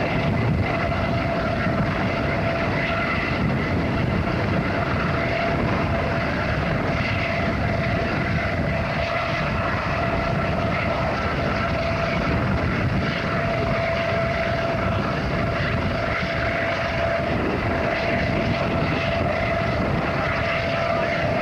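Propeller aircraft engine running steadily, a constant hum with a fixed whine over a rushing noise that does not rise or fall.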